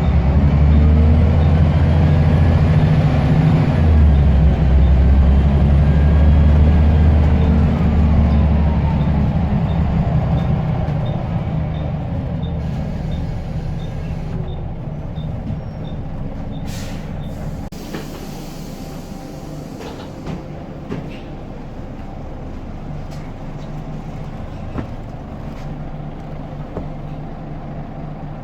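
Scania L94UB bus's diesel engine pulling hard, with a turbo whistle that rises and then falls away. There is a semi-automatic gear change about four seconds in. After about ten seconds the engine eases off and runs quieter.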